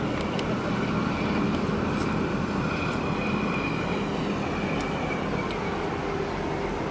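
Steady low engine drone of a large ship under way, under a constant rush of background noise. A faint high whine rises over it about midway and fades, with a few light clicks.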